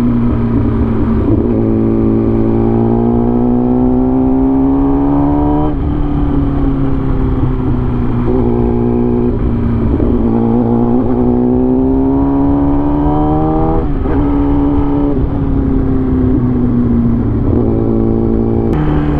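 Vehicle engine pulling under acceleration, its revs climbing and then dropping sharply at gear changes twice, over a steady low hum and road noise.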